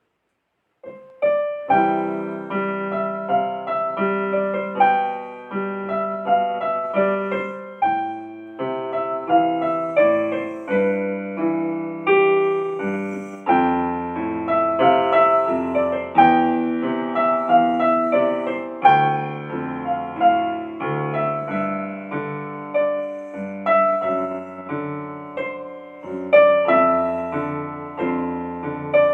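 Solo piano music: chords and a melody of struck notes, each fading away, starting about a second in.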